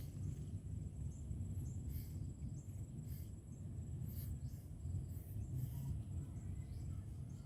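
Outdoor rural ambience: a steady high-pitched insect drone with a few short chirps scattered through, over a low rumble.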